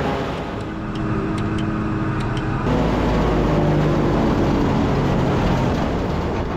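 Engine of farm harvesting machinery running steadily, with a few light clicks in the first couple of seconds. The drone changes abruptly about two and a half seconds in.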